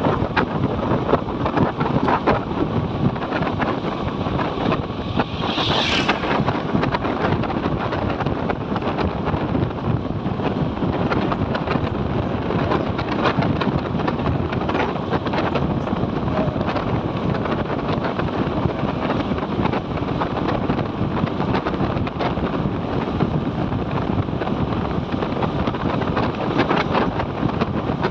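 Motorcycle riding noise: wind buffeting the microphone over steady engine and road noise. A brief high-pitched rising sound cuts through about five seconds in.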